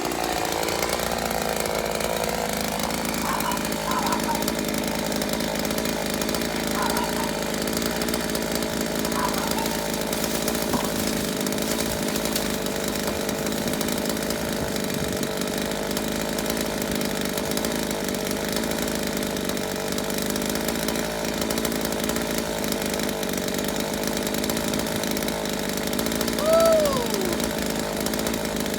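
Chainsaw engine running steadily. Near the end a short falling tone rises above it.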